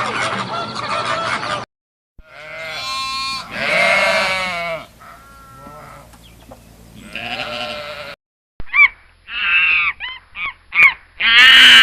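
A sequence of farm-animal calls: a flock of geese honking, cut off about a second and a half in; then long bleating calls of a goat or sheep; then, near the end, a quick run of short, loud calls.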